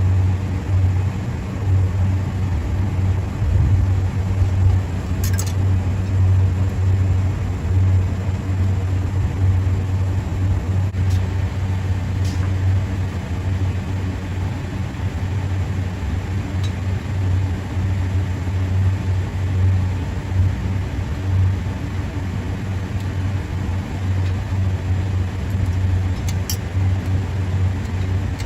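A steady low hum with a few faint clicks scattered over it.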